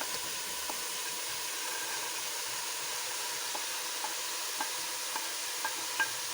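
Baby corn, carrots and French beans sizzling steadily in olive oil in a pan, with a few light clicks of a spoon stirring against the pan, mostly in the second half.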